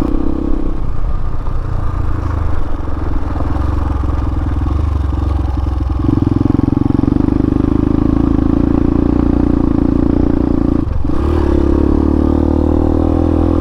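Hawk 250 dual-sport motorcycle's single-cylinder engine running under way. The engine eases off about a second in, picks up strongly again around six seconds, and dips briefly near the end before pulling again.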